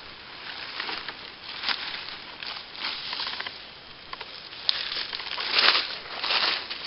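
Irregular rustling and crunching of dry forest-floor vegetation, like leaf litter or brush being trodden through. The bursts grow louder toward the end, with one sharp click a little under five seconds in.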